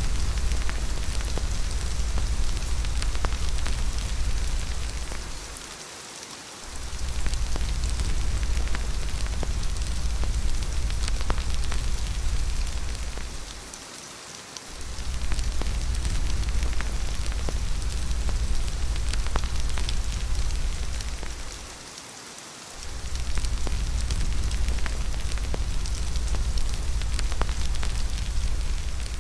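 Steady rain hiss with scattered sharp ticks of drops or fire crackle, over a deep low wind rumble that fades out briefly about every eight seconds and returns.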